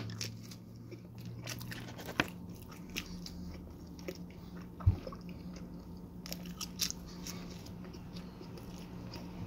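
A person biting and chewing mouthfuls of cheesy garlic pizza, with soft scattered crunches of crust and small mouth clicks, a few sharper ones standing out, over a faint steady low hum.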